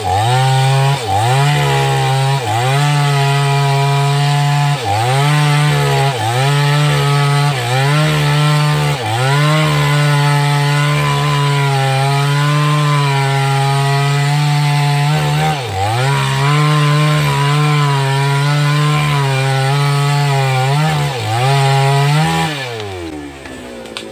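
588X two-stroke chainsaw running at full throttle while cutting through wood, its engine note dipping under load and picking up again over and over. Near the end the engine winds down to a lower, quieter note as the throttle is released.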